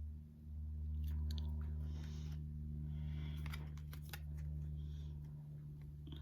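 Pokémon cards and a foil booster-pack wrapper being handled: short crinkling rustles and scattered light clicks over a steady low electrical hum.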